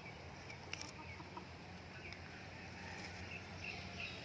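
Birds chirping softly in scattered short chirps, over a faint steady low hum.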